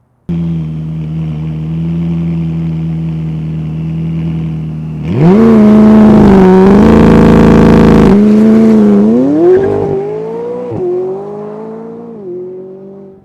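McLaren 570S twin-turbo V8 and sports exhaust: a steady cruise, then a hard full-throttle acceleration about five seconds in. The engine note climbs and drops back at each upshift, three times, then eases off and fades near the end.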